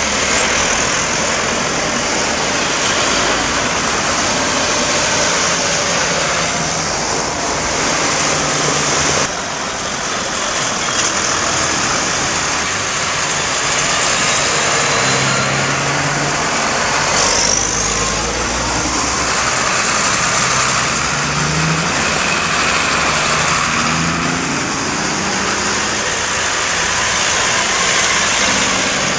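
Tractor engines running as a procession of tractors drives past, over a steady rush of noise. The sound breaks off abruptly and jumps about nine seconds in.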